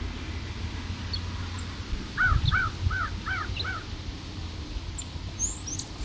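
A bird calling: a quick run of five short arched calls about two seconds in, then a brief high chirp near the end.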